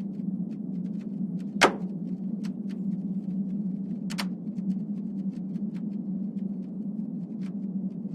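Seismometer recording sped up into audible sound: a steady low hum with scattered sharp pops and clicks. The loudest pop, about a second and a half in, slides down in pitch, and a second strong one comes near the middle. The pops mark small earthquakes in the seismic unrest ahead of a volcanic eruption.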